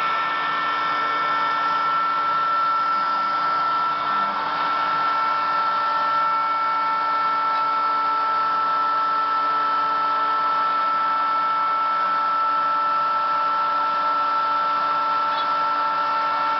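Homemade CNC machine running with a steady motor whine at a constant pitch over a hiss.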